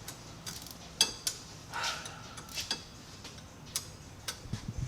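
Irregular sharp metallic clicks and clinks of hand wrenches on bolts being tightened, a handful of separate knocks with no steady ratchet rhythm.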